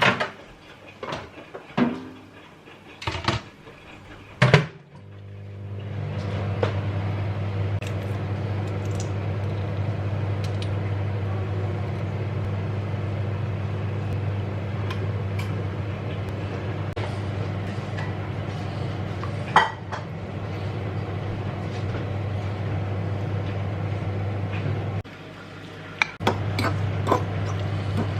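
Kitchen dishes and cutlery clinking for the first few seconds, then a steady low electric hum from a kitchen appliance starts and runs on with scattered small clinks. The hum drops out briefly near the end and comes back.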